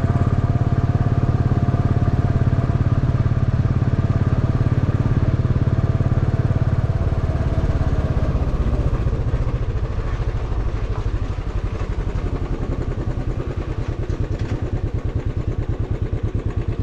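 Motorcycle engine running under way, with a steady low hum. About halfway through it gets quieter and its firing pulses slow, as the engine eases off.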